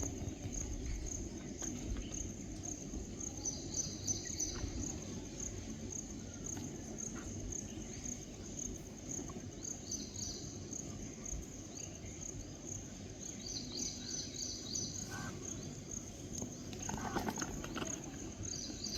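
Insect, cricket-like, chirping steadily as a high, evenly pulsing tone, with short bursts of chirping now and then over a low, rumbling background noise.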